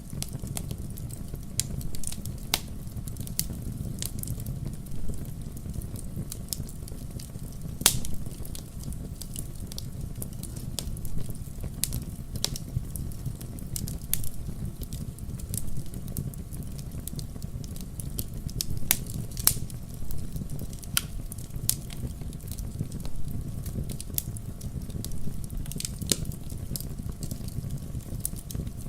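Fire crackling in a fireplace: a steady low rumble of flame under frequent sharp pops and snaps, with one louder pop about eight seconds in.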